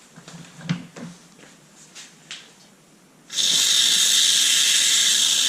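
Pump Saver aerosol can being dispensed through its hose into a pressure washer's pump: a loud, steady hiss that starts suddenly about three seconds in, after a few light handling clicks.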